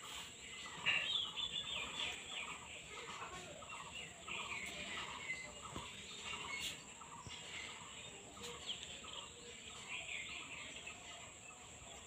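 A bird calling over and over in short, high chirps, several a second, without a break.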